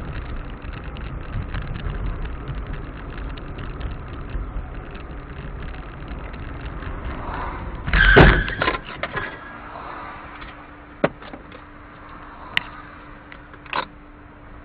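Car driving, with steady road and engine rumble, then one loud, brief collision impact about eight seconds in. Afterwards it is quieter, with a steady hum and a few sharp clicks.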